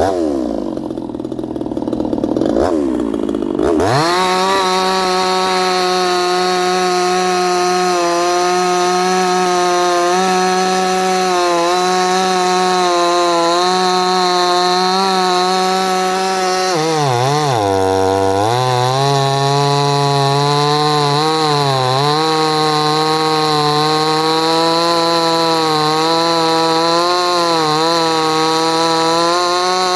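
58cc Chinese two-stroke chainsaw revving up, then running at full throttle through hard timber, its engine note held steady and high. About two-thirds of the way through the pitch drops sharply as the saw bogs under load, then recovers; there are smaller dips after that.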